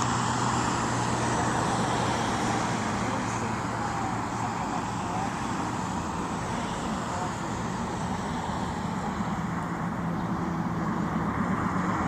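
Steady road traffic noise, an even rushing sound with a low hum underneath.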